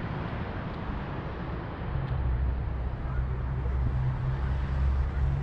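A motor vehicle's engine running, a steady low hum that grows a little louder about two seconds in, over outdoor background noise.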